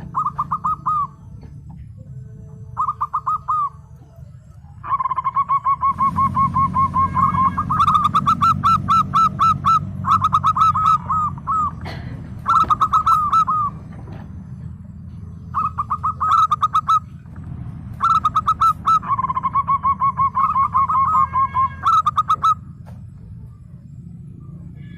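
Zebra dove (local perkutut) singing: bursts of quick, stuttering coo notes at a steady pitch, repeated many times with short pauses between, over a low steady hum.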